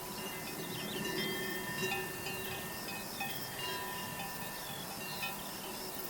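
Soft ambient background music of held chime-like tones, with short high chirps like birdsong woven through it.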